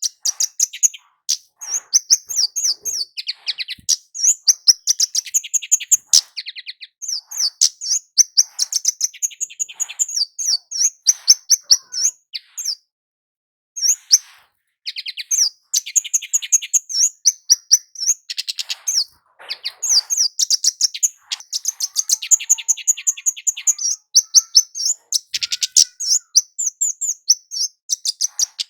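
Kemade jawa, a small flowerpecker, singing hard: a dense run of rapid, thin, high-pitched chirps and short trills, broken once by a pause of about a second just before the middle.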